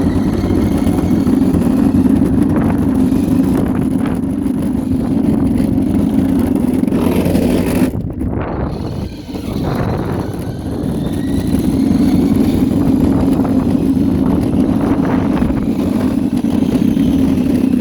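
Scooter being ridden around a yard on grass, its running rumble loud and steady. The sound thins briefly about eight seconds in, then builds again.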